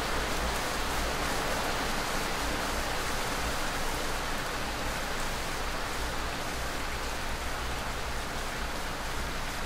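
Heavy rain pouring down: a steady, even hiss with no separate drops standing out.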